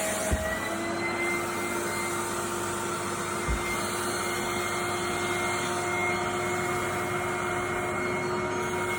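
Vacuum cleaner running steadily: a constant rushing of air with a steady motor whine, and a couple of faint low bumps.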